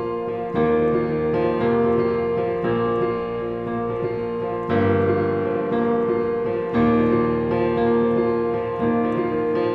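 Keyboard with a piano sound playing a steady sixteenth-note rhythm figure over the verse chords, the low root and fifth repeated like a strummed acoustic guitar, with the chord roots changing every second or two.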